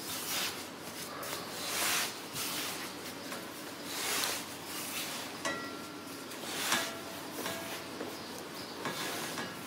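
Hands dragging a ball of bread dough across a silicone pastry mat, shaping it and tightening its surface: a swishing stroke about every two seconds.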